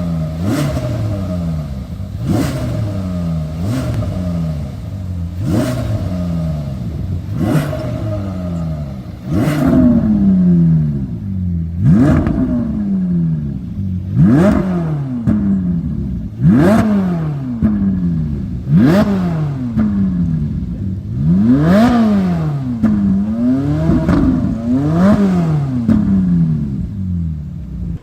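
Ferrari 458 Italia's naturally aspirated V8 blipped again and again through a custom valved exhaust. Each rev climbs quickly and falls back, about one every two seconds, with crackles as the revs drop.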